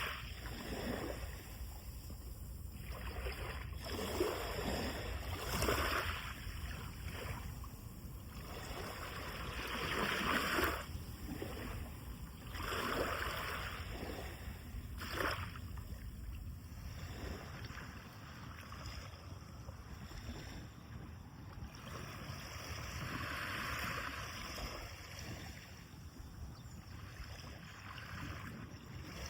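Sea of Japan waves breaking on the beach: washes of surf swell up and fade every few seconds over a steady low rumble.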